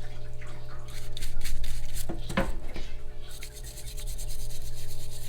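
Scrubbing and rubbing on a small metal carburetor linkage cover as its grime is cleaned off, with a steady low hum underneath.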